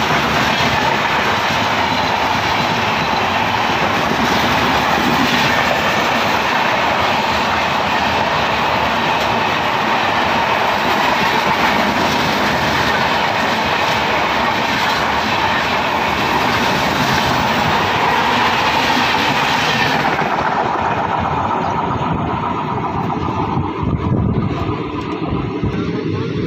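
Two passenger trains passing on adjacent tracks, heard from the side of one of them: a loud, steady rushing rattle of wheels and coaches with clickety-clack. About twenty seconds in, the high rush drops away as the other train clears, leaving the moving train's own wheels running. A single louder thump comes near the end.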